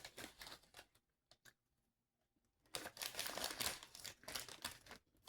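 Close-up crackling of snacking on crunchy white cheddar puffs: the puffs and their bag crackle in two spells, with a pause of about a second and a half between them.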